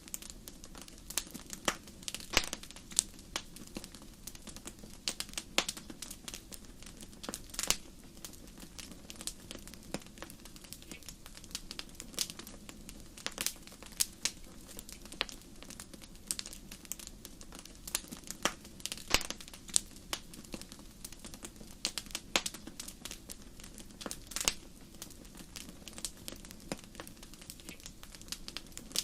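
Wood fire crackling, with irregular sharp pops and snaps over a low steady hiss of flame.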